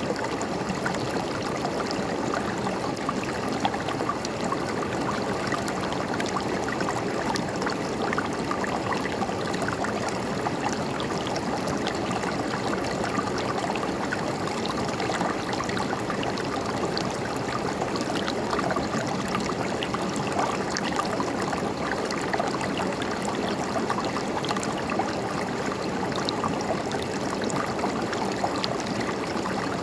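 River water flowing and gurgling over stones, a steady rushing and babbling with small splashes scattered through it.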